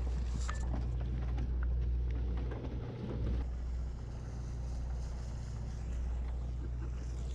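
Sportfishing boat's engine running steadily, a low drone, with a few sharp clicks and knocks in the first three seconds.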